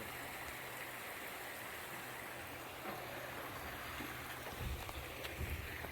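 River water flowing, a steady rushing hiss, with low irregular rumbles coming in near the end.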